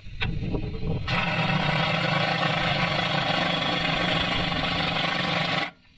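Loud, steady machine running noise with a low hum under a broad hiss, starting about a second in and cutting off abruptly just before the end.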